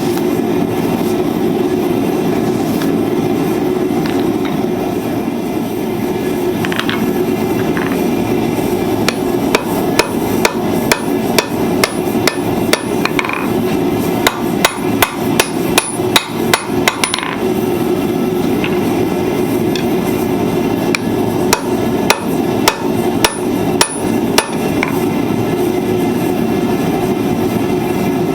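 Blacksmith's hammer striking hot steel on an anvil while forging tongs: a run of quick blows, a pause, then a second shorter run, some with a high ring. The blows sit over a steady background rumble.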